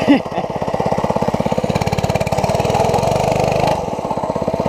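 An 80cc mini bike's small single-cylinder four-stroke engine running at a steady idle, its rapid even firing swelling slightly for a second or two in the middle before settling back.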